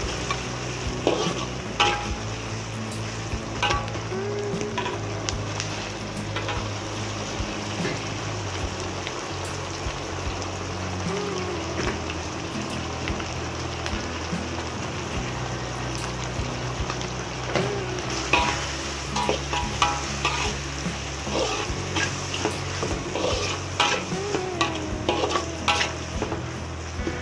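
Sliced onions, and then chopped tomatoes, sizzling in hot oil in a pan while a steel ladle stirs them, scraping and clinking against the pan. The scrapes and clinks come more often in the second half.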